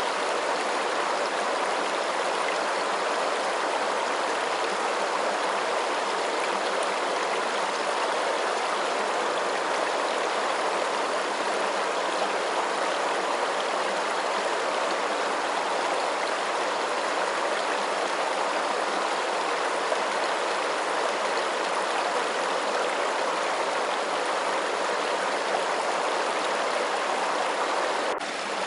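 Flowing water rushing in a steady, even hiss without pauses, briefly dipping in level just before the end.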